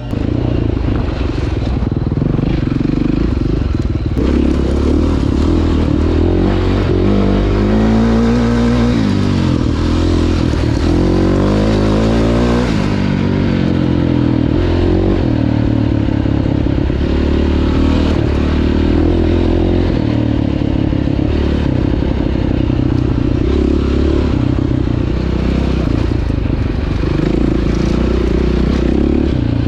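Enduro dirt bike engine running hard on a trail ride, its pitch climbing and dropping several times as the rider works the throttle, with the rattle of the bike over rough ground.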